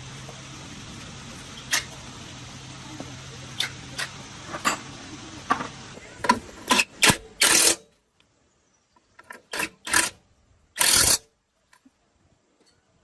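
A steady machine-like hum with sharp clicks and knocks at irregular intervals, which come louder and closer together about six seconds in. About eight seconds in the hum cuts off suddenly, and a few short, loud noise bursts follow in near silence.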